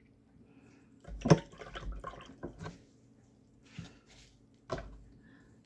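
A paintbrush rinsed in a jar of water: quick swishes and drips with sharp taps of the brush against the jar, clustered in the first half and once more near the end.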